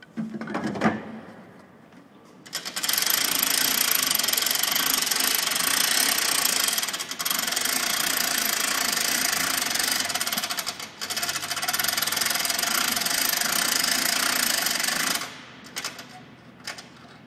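Electric winch of a Lektro 8600 aircraft tug running steadily with a rattle for about twelve seconds, briefly easing twice, as it pulls the aircraft forward onto the tug. A knock about a second in comes before it starts.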